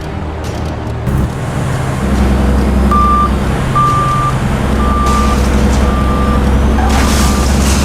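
A radio-controlled dump truck's truck-engine sound running, growing louder about two seconds in. From around three seconds in, a reversing beeper sounds five times, about once a second.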